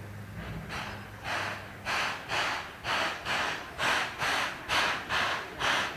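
C11 steam tank locomotive chuffing as it gets under way: sharp exhaust beats, about two a second, starting about half a second in and growing louder.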